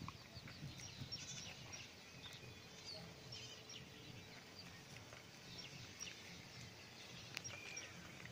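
Faint background with scattered short bird chirps.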